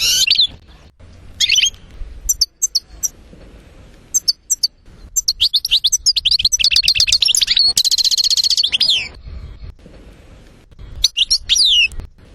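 European goldfinch singing in phrases of quick twittering chirps. A long, fast trill comes in the middle and a shorter phrase near the end.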